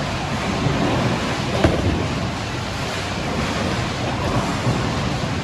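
Steady rumbling din of a bowling alley: balls rolling down the lanes and pins and pinsetter machinery, with a single sharp knock about one and a half seconds in.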